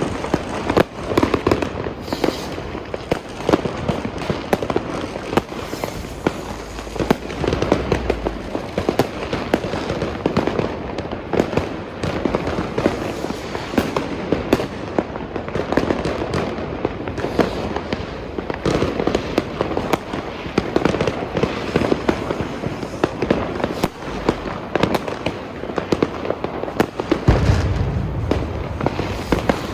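New Year's Eve fireworks: many rockets and firecrackers going off at once in a dense, continuous stream of overlapping bangs and crackles, with deeper booms about a quarter of the way in and near the end.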